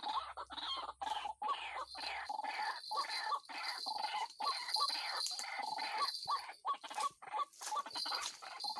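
White-breasted waterhen (ruak-ruak) calling: fast, repeated clucking notes, several a second, running on without a break. A steady high buzz joins about two seconds in.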